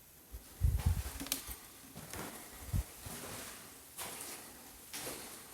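Footsteps and rustling, with dull thuds about a second in and near three seconds and a sharp click between them.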